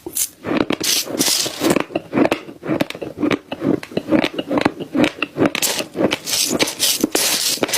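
Close-miked chewing of crunchy food: a rapid, continuous run of crisp crunches.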